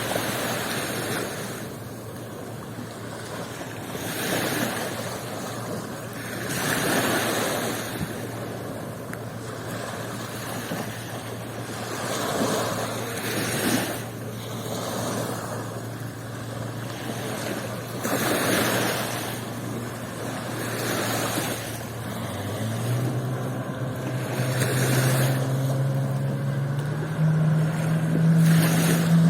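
Sea waves breaking and washing up the shore in repeated surges every few seconds. Under them runs a steady low engine hum that rises in pitch twice in the last few seconds.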